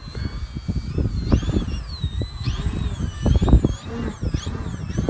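Wind buffeting the microphone in heavy, gusty rumbles. Over it, the thin high whine of an electric model plane's motor and propeller rises and falls in pitch as the plane flies.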